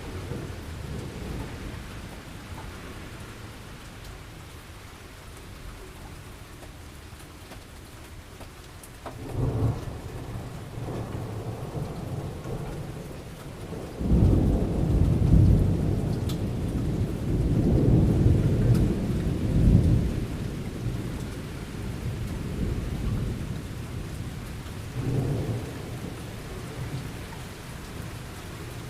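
Thunderstorm: steady rain falling, with rolling thunder. A sharp clap comes about nine seconds in, a long loud rumble builds from halfway and runs for about six seconds, and a smaller roll comes near the end.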